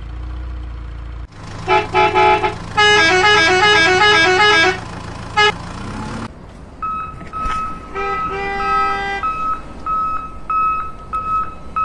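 Electronic toy sounds: a tinny beeping tune of quick stepped notes, then, after a short gap, a single beep repeating about twice a second with a brief tune over it.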